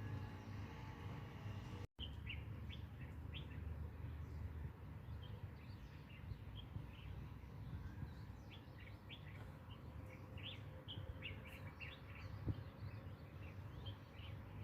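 Small birds chirping: many short, high chirps over a steady low background rumble, after a brief dropout about two seconds in.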